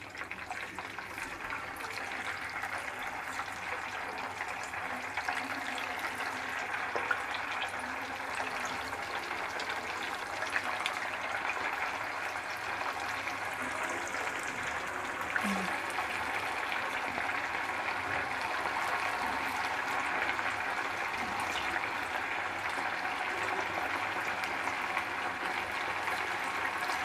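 Chicken pieces shallow-frying in hot oil in a kadai on high heat: a steady sizzle with scattered small crackles, slowly getting louder.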